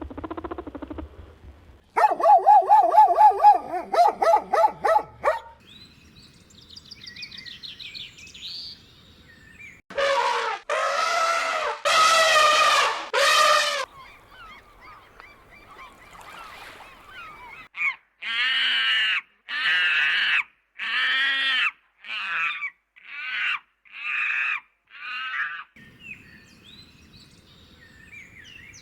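A succession of animal calls: a rapid pulsing call, then four long loud calls, then a series of about eight shorter calls.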